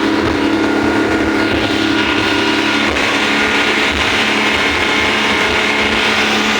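Speedboat engine running steadily at speed, a constant loud drone with a rushing hiss over it that grows brighter about two seconds in.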